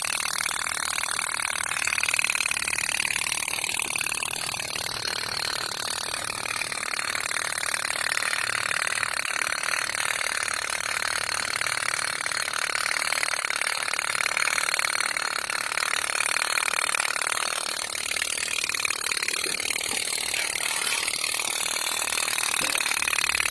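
Toy boat's small motor running steadily, a continuous high buzz with little low end and only slight changes in level.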